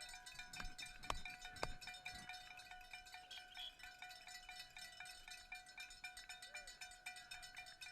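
A bell shaken rapidly and evenly, metallic clanks over a steady ringing tone, with a few heavier knocks in the first two seconds.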